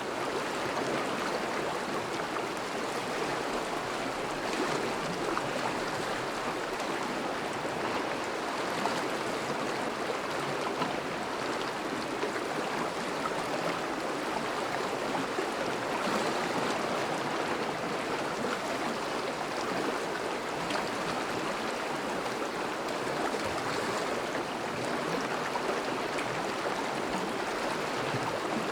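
Thawing river running steadily over its bed, a constant rush and burble of moving water.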